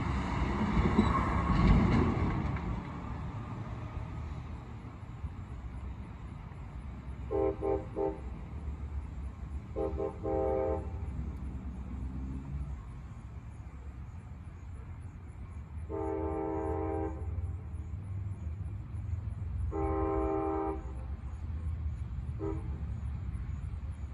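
CSX locomotive's multi-chime air horn sounding four blasts of about a second each, then one short toot near the end, over the steady rumble of the train.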